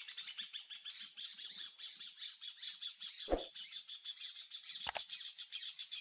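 Forest birds calling, a dense run of high chirping notes repeating about four times a second, with a dull thump a little past halfway and a sharp click near the end.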